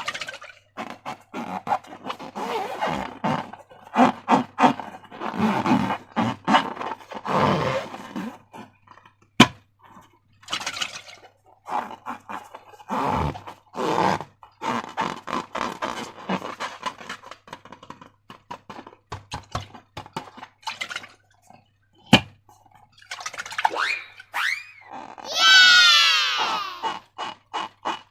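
Slime being squeezed and worked by hand, many short sticky clicks and crackles, with two sharper snaps. Near the end a rubber balloon squeals, gliding up and then falling in pitch.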